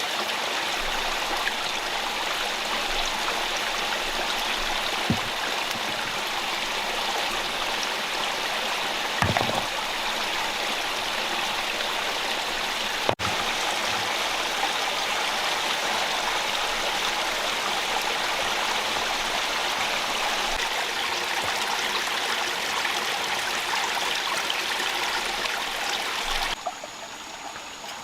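Rocky stream running, a steady rush of water over stones, with a few soft knocks and a sudden drop to a quieter flow near the end.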